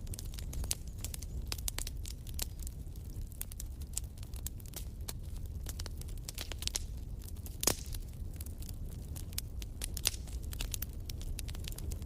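Wood fire burning in a fireplace, crackling with irregular sharp snaps over a low steady rumble, and one louder pop about two thirds of the way through.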